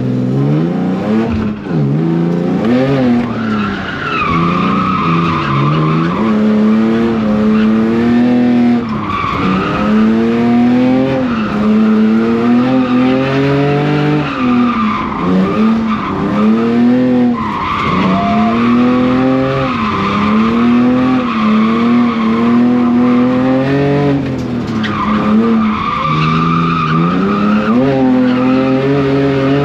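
E46 BMW drift car's engine revving up and falling back again and again, its pitch swinging every couple of seconds, while the tyres squeal through long slides several times.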